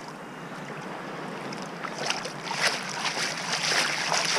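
Shallow sea water sloshing and splashing, getting louder and busier about halfway through.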